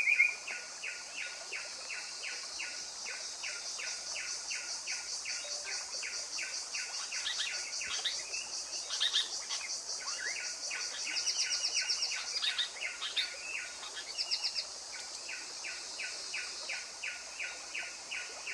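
Birds calling in forest: one bird repeats short notes about three times a second, and other calls and quick high trills join in the middle. A steady high-pitched buzz runs beneath.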